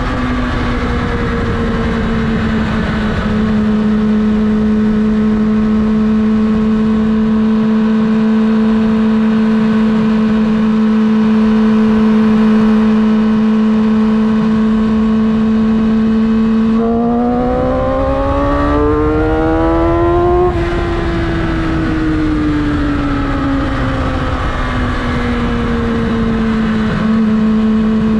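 Yamaha R6's inline-four engine running at a steady cruising pitch under way, over wind rush. After about 17 seconds the revs climb for about three seconds as the throttle is rolled on, then gradually fall back to the cruising note.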